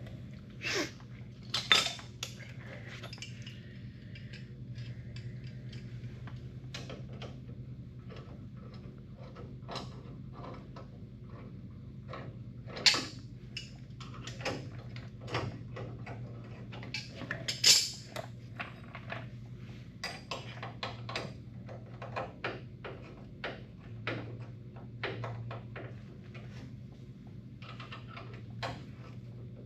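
Metal tools and car parts clinking and clanking in irregular knocks, three of them much louder about 2, 13 and 18 seconds in, over a steady low hum.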